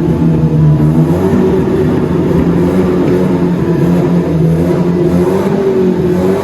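A car engine running steadily, its pitch wavering gently up and down as the throttle varies a little.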